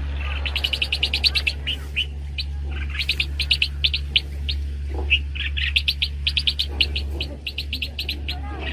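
Small birds chirping in fast runs of short, high chirps, several a second, over a steady low hum.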